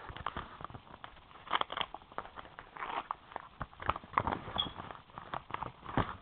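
Paper mailing envelope being ripped open by hand: irregular tearing and crinkling in quick bursts, with clicks and rustles.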